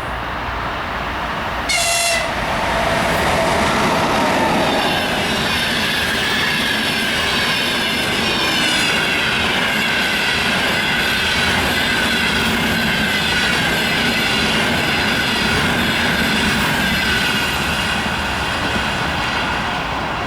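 An EP20 electric locomotive hauling a passenger train passes close by. It gives a short horn blast about two seconds in, then a steady rolling noise carries a whine that falls slowly in pitch.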